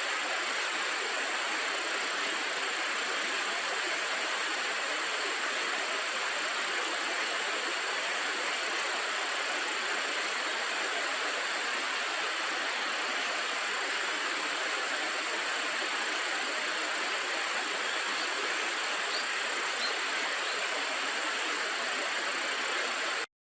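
River water rushing steadily, an even hiss with no change in level, cutting off abruptly near the end.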